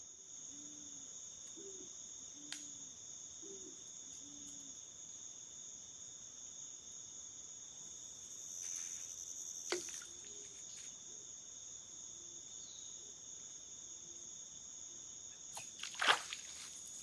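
Night insect chorus of crickets: a steady high trill on two pitches. Short low calls come about once a second early on, and a few sharp knocks break in, the loudest near the end.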